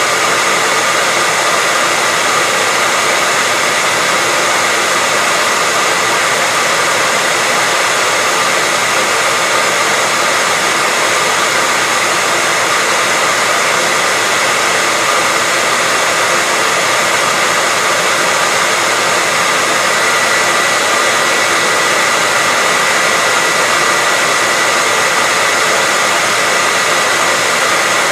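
Hair dryer running continuously at a steady speed: an even rushing of air with a faint high whine from the motor and fan.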